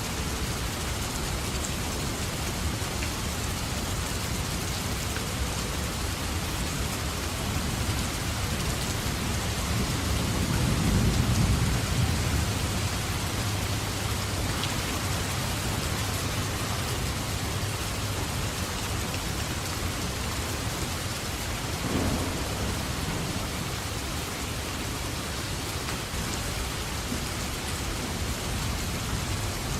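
Steady heavy rain falling in a thunderstorm. Thunder rumbles low, swelling about ten seconds in and fading a few seconds later, with a shorter low rumble about twenty-two seconds in.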